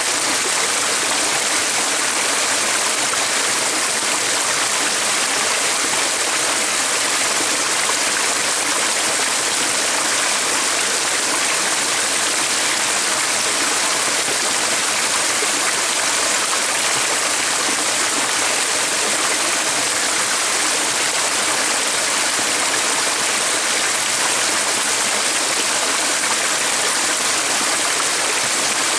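A flowing stream running steadily: an even, unbroken rush of water.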